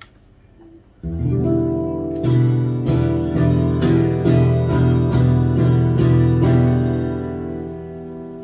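Acoustic guitar strummed: one chord struck about a second in, then a run of strokes at about two a second, then a chord left to ring and fade near the end.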